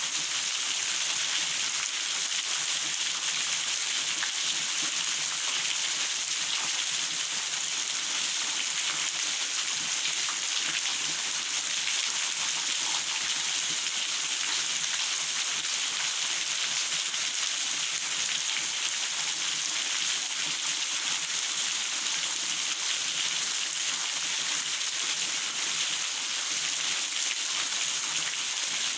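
Steady rain falling, an even hiss of many drops that holds without a break.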